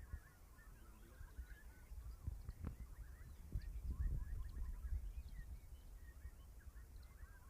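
Many small songbirds chirping and twittering at once in short overlapping notes, over a low rumble, with a couple of knocks near the middle.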